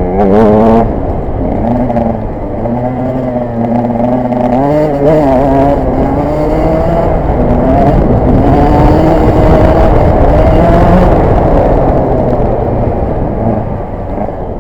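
KTM 125 EXC's two-stroke single-cylinder engine running off-road, its pitch wavering up and down with the throttle. A loud burst of revs comes right at the start.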